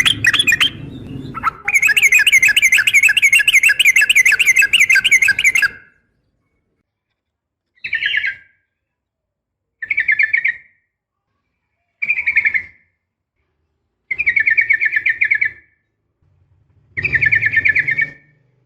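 Yellow-vented bulbul giving a long, fast rattling chatter for about four seconds. After a pause come five short bursts of the same chatter, about two seconds apart.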